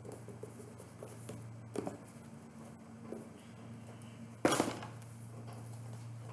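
Small handling noises, light clicks and taps, over a steady low hum, with one louder, brief rustle about four and a half seconds in.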